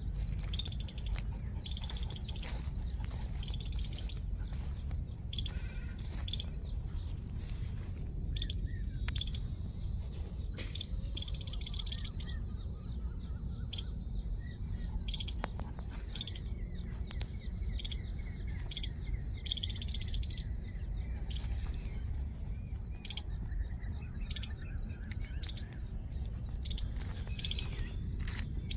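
Small birds chirping on and off in short, high calls over a steady low rumble on the microphone.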